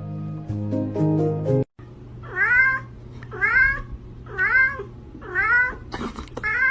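A short stretch of music, then a cat meowing over and over, about once a second, each meow rising and then falling in pitch.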